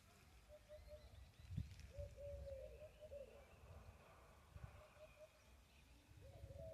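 Near silence with faint bird calls: clusters of short, wavering low notes, heard about one, two to three, and six to seven seconds in.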